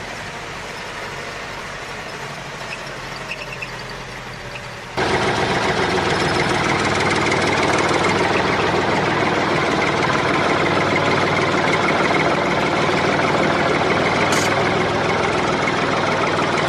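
A motor running steadily. About five seconds in it turns abruptly much louder and keeps running evenly.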